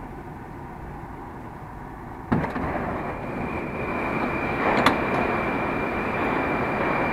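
Moscow metro train standing at a station platform. A low, quiet rumble gives way about two seconds in to a sharp clunk, followed by a louder steady rushing noise with a faint high whine. There is a second click a few seconds later.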